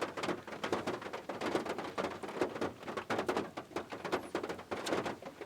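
A dense, irregular patter of small taps and clicks, several a second.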